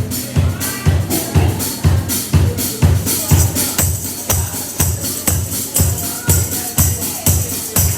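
Live rock band music: a steady, driving drum beat with bass drum about twice a second, and a tambourine shaking along.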